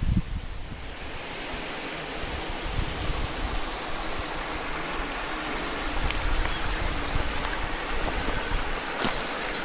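Tiered mountain waterfall rushing steadily, a constant hiss of falling water.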